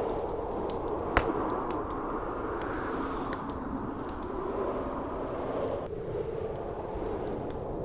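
Blizzard wind howling steadily, rising and falling, with a wood fire crackling in a fireplace; one louder pop about a second in.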